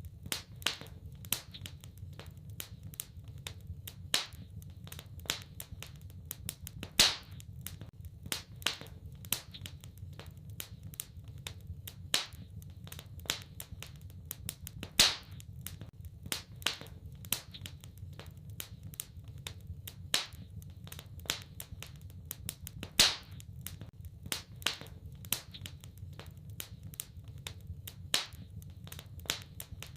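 Wood fire crackling in a fireplace: irregular sharp pops and snaps, a few much louder than the rest, over a steady low rumble of burning.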